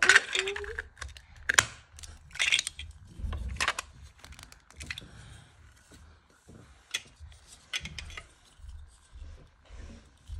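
Lego bricks being handled: irregular plastic clicks and clatters with short rustles, busiest in the first few seconds and sparser afterwards. A child's voice is heard briefly at the start.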